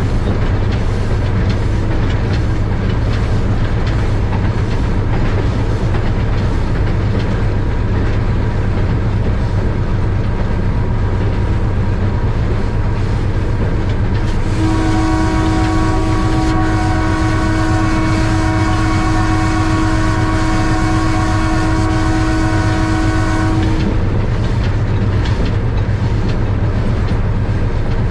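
Passenger train running with a steady rumble. About halfway through, the locomotive's horn sounds one long, steady blast of about nine seconds.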